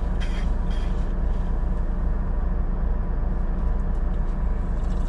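Steady low rumble of a livestock semi-truck running.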